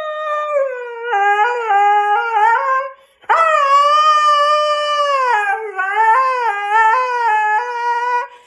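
A dog howling: two long, wavering howls, the second starting after a short break about three seconds in.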